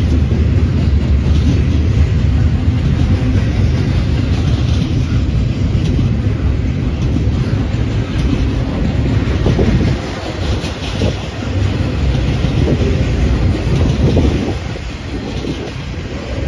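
Double-stack intermodal container train rolling past at close range: a loud, continuous low rumble from the well cars and their wheels on the rails, with scattered clacks and knocks in the second half.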